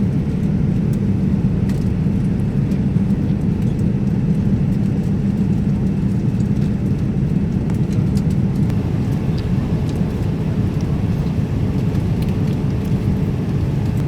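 Steady low drone of airliner cabin noise, the engines and airflow heard from inside the passenger cabin, with a few faint clicks.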